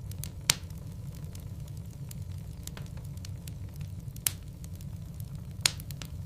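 Wood fire burning in a fireplace: a steady low rumble of flames with frequent small crackles from the burning logs and three louder pops, about half a second in, a little after four seconds, and near the end.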